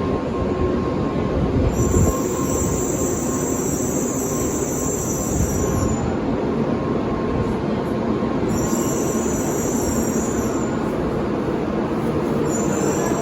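Train running on rails with a steady rumble, and a high-pitched squeal that comes in twice: for about four seconds, then for about two.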